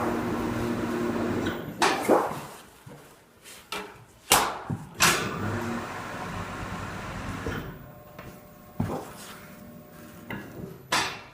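Sharp clanks and knocks of sheet metal being handled and bent into flashing, about six in all, with a steady hum behind them in the first two seconds and faintly near the end.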